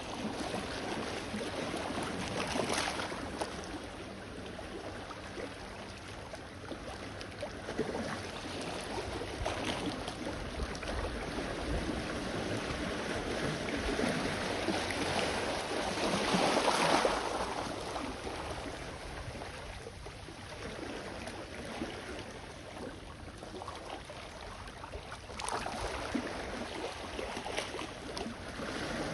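Small sea waves washing onto the shore, swelling and fading in a few surges, the biggest about halfway through.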